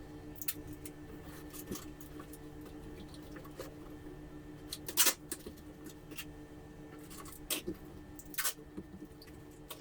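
Packing tape and a cardboard box being handled: scattered rustles and crackles as tape is pulled and pressed onto the cardboard, with a louder sharp noise about five seconds in.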